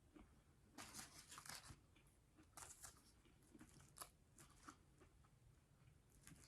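Faint close-up chewing of a bacon cheeseburger, with crackly crunches in two short clusters, about a second in and again about two and a half seconds in, and a few small clicks of the mouth between them.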